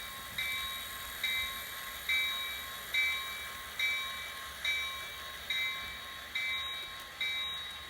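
Locomotive bell from an HO scale model train's DCC sound decoder, ringing steadily about once every second with a sharp strike that fades after each ring.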